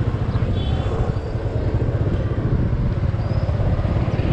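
Motorcycle engine running while under way, a steady low rumble.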